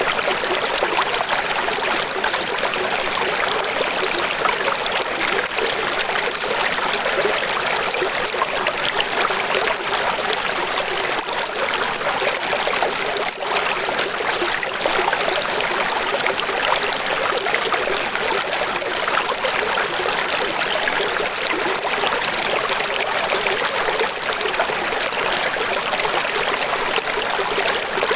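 Running water, a steady even rush of a stream with little low rumble, unbroken throughout.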